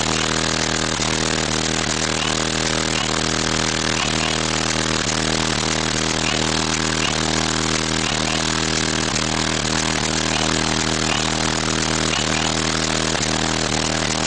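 Car audio subwoofers playing a loud, unchanging bass drone, thick with overtones.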